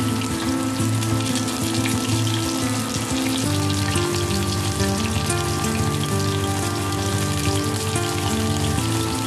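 Flour-coated chicken wings sizzling and crackling as they fry in hot oil, under background music of held chords that change about a third of the way in and again near the end.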